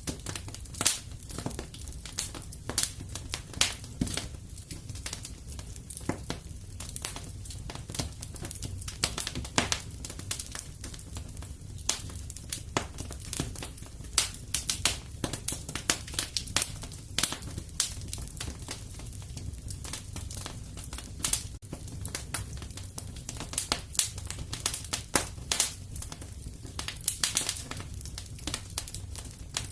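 Wood fire burning in a fireplace: irregular crackles and sharp pops over a low, steady rumble of flame.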